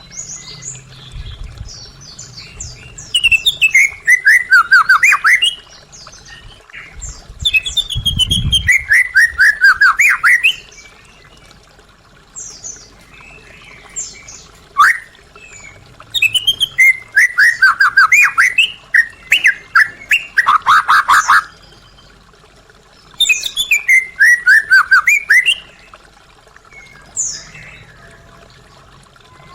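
White-rumped shama (murai batu) singing in loud bursts of rapid notes, each run sliding down in pitch. The runs are separated by pauses with a few short single calls between them.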